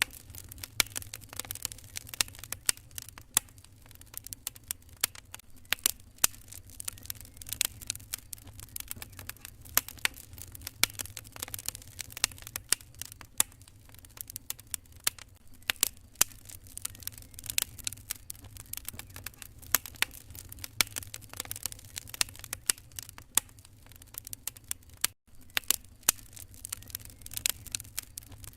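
Wood fire crackling in a fireplace: irregular sharp pops and snaps, several a second, over a steady low rumble. The sound drops out for an instant about 25 seconds in.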